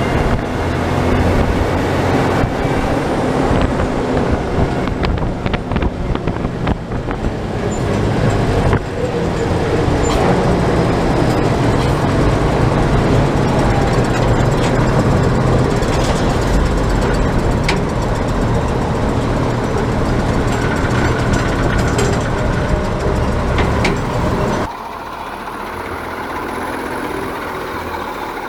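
Military 5-ton 6x6 truck driving along a road, its heavy engine and drivetrain running steadily. It turns suddenly quieter near the end.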